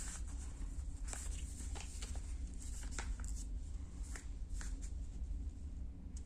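Sheet of A4 paper being handled and folded on a table: a scatter of short crinkles and taps as the paper is creased, over a low steady hum.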